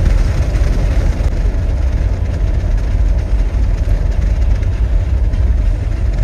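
Loud, steady low rumble with no distinct tones.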